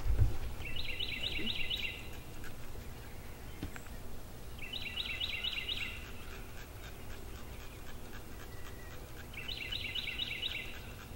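A songbird singing three times, about four and a half seconds apart, each song a quick run of about five repeated high notes lasting just over a second. A single low thump comes just at the start, over a steady low outdoor background noise.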